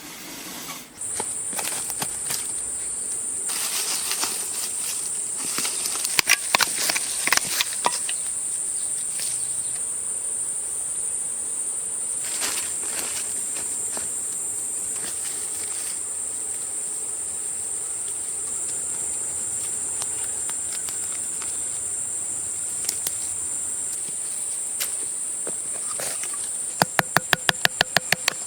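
A steady, high-pitched insect trill that starts about a second in and carries on, with scattered knocks and rustles early on and a burst of rapid, evenly spaced clicks near the end.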